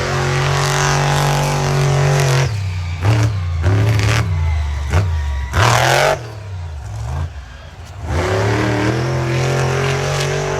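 Monster truck engine at full throttle, then dropping off and blipped in several short revs through the middle, then wound back up to full throttle near the end.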